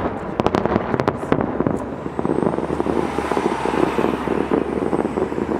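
Fireworks show: a rapid run of bangs in the first second and a half, then dense crackling over a steady low rumble.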